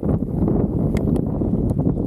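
Strong wind buffeting the microphone: a loud, steady low rumble, with a few small clicks about a second in and near the end.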